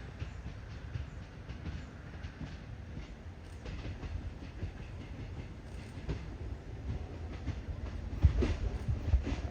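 MÁV Bzmot diesel railcar hauling a Bzx trailer car, approaching: a low engine and running-gear rumble with wheels clattering over the rail joints, growing louder, with a few sharp wheel knocks near the end.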